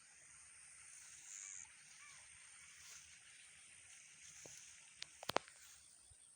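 Quiet countryside ambience with faint bird chirps and a steady high-pitched background hum. A quick cluster of sharp clicks about five seconds in is the loudest sound.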